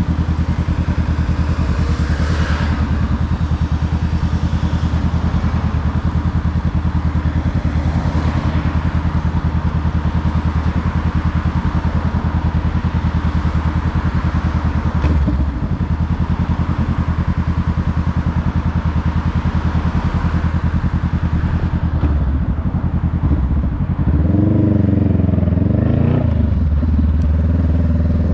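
Honda Rebel 500's parallel-twin engine running steadily under way, with wind and road rush. The revs dip briefly about halfway through, and near the end they rise and fall with gear changes.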